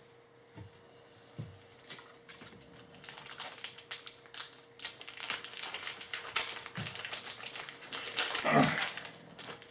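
Crinkling and crackling of a trading-card pack wrapper being handled and opened, a quick run of small rustles and clicks with a louder rustle near the end, after a few soft bumps.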